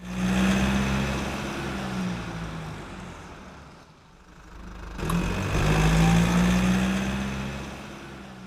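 A car engine running, heard in two swells: loud at once, fading over a few seconds, then rising again sharply about halfway through and fading once more.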